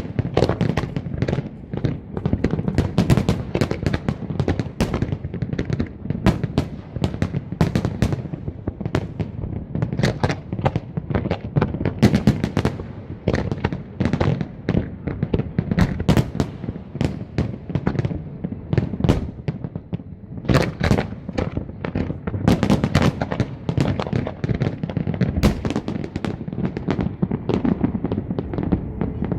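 Fireworks display going off continuously: a dense, irregular barrage of sharp bangs and crackles over a steady low rumble of bursting shells.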